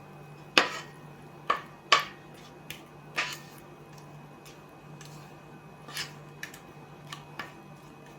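Dishes and utensils being handled in a kitchen: a series of sharp clinks and knocks, the loudest in the first two seconds, then softer, sparser taps, over a faint steady hum.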